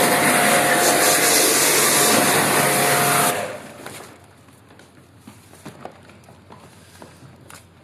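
A motorised machine running with a loud rushing noise and a steady whine, switched off about three seconds in; afterwards only faint clicks and knocks of handling.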